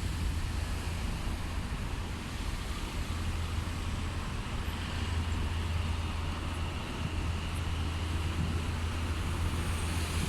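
A steady low rumble under a constant wash of wind and water noise.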